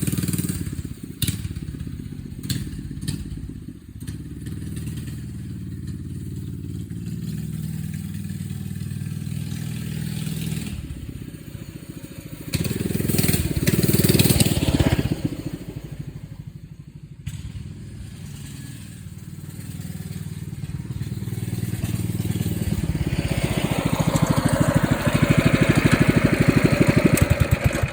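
Minibike's 212 cc single-cylinder engine running while being ridden, its speed rising and falling; it climbs to a peak about halfway through, drops back, then builds steadily again toward the end.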